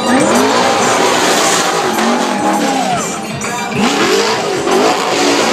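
Ford Mustang's engine revving hard as the car drifts across a dirt arena, its pitch climbing and dropping again several times as the driver works the throttle through the slides.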